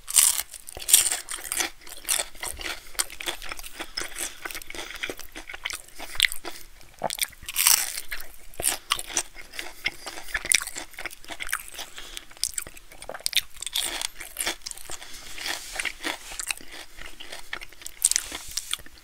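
Close-miked crunchy bites into a breaded fried pickle spear, then crackly chewing of the crunchy coating. The loudest crunches come about a second in and again around eight seconds in.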